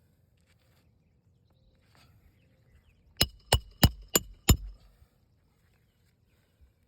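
Five quick, sharp hammer blows with a slight metallic ring, in a fast even run lasting just over a second, typical of hand-nailing a lifted asphalt roof shingle back down. Before the blows there is light scraping and handling noise.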